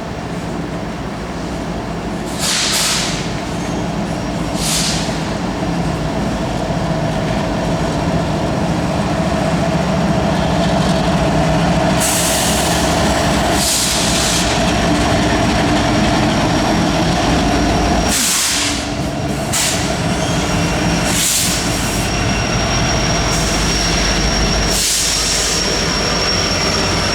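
Empty coal train rolling steadily past: the steel wheels of empty hopper cars running on the rails, with several short hissing bursts and a thin, high wheel squeal that sets in near the end.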